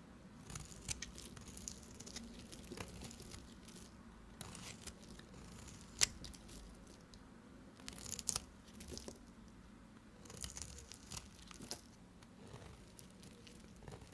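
Knife cutting through bars of soap: scattered crisp crunches and crackles, with one sharp click about six seconds in.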